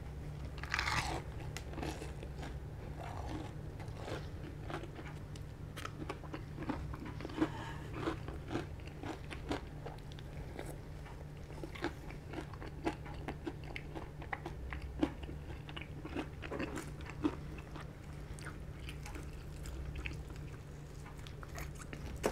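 A crunchy bite into a piece of KFC spicy Szechuan fried chicken, its crisp skin cracking about a second in, followed by steady chewing with many small crisp crunches.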